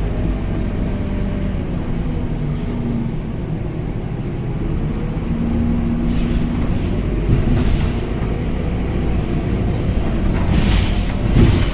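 Scania K270UB city bus heard from inside the cabin while driving: a steady low rumble of engine and road, with engine tones drifting slightly in pitch. Near the end a few short rattles and knocks sound over the rumble.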